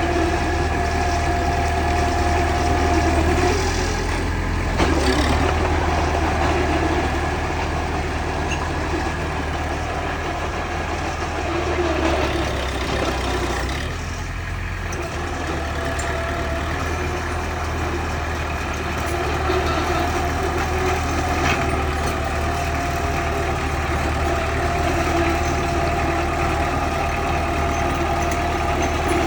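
Bulldozer running steadily, a low hum with a steady whine over it that fades out for a moment about a third of the way in and returns, easing off briefly near the middle.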